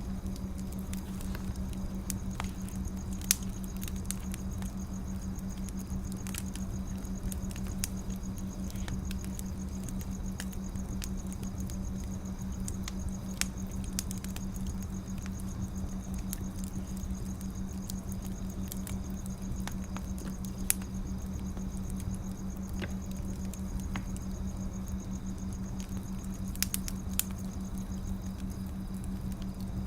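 Wood fire crackling: irregular small snaps and ticks with a few sharper pops, over a steady low rumble and hum.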